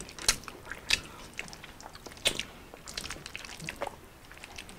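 Two people chewing and biting food, spaghetti and a cheeseburger, with wet mouth sounds and sharp lip smacks and clicks. The strongest smacks come about a third of a second, one second and two and a quarter seconds in, with a quick cluster around three seconds.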